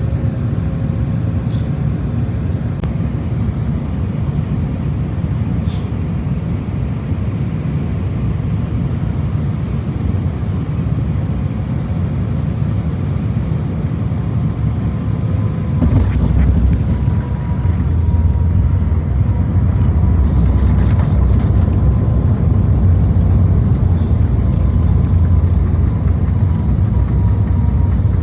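Airbus A350-1000 cabin noise: a steady low rumble of engines and airflow. About halfway through comes a brief jolt, and then the rumble grows louder and stays that way, which fits the main gear touching down and the start of the landing roll.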